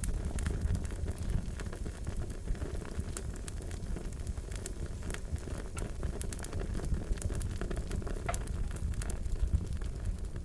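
Wood fire crackling: a steady low rush of flame with irregular sharp pops and snaps.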